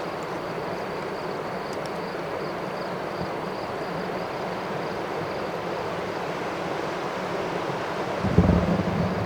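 Steady rushing of river water, even and unbroken, with a faint steady high insect trill above it. Near the end comes a brief louder low noise, like handling or a step.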